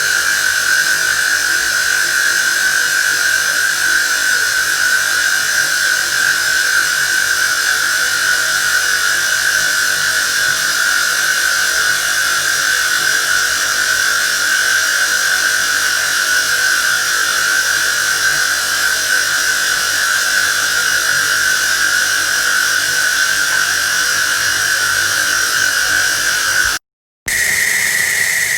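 Water sound distorted by a voice-changer effect into a steady, buzzy, hissing tone held at one pitch. It cuts out briefly near the end and comes back at a slightly higher pitch.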